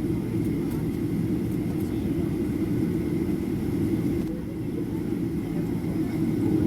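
Steady engine and airflow rumble of a Boeing 737-800 with CFM56-7B turbofans, heard inside the passenger cabin. A faint steady whine runs above the rumble, and the hiss eases briefly a little past four seconds in.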